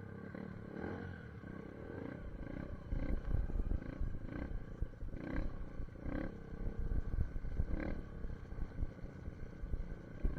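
SSR 150 dirt bike's single-cylinder four-stroke engine running as it rides off in low gear, with a low rumble that gets louder about three seconds in.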